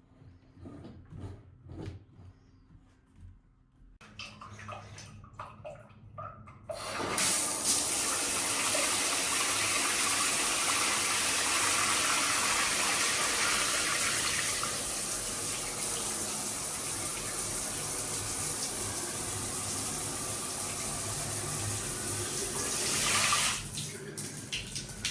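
Water running hard and steadily from a shower fixture, turned on about seven seconds in after some light handling clicks, and shut off near the end.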